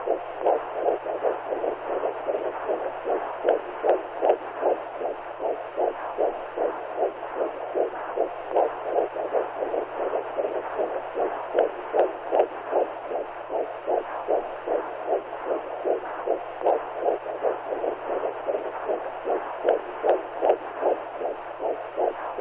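Womb sound for soothing a newborn: a heartbeat pulsing as a steady whooshing rhythm, several beats a second, over a constant hiss with a faint low hum underneath.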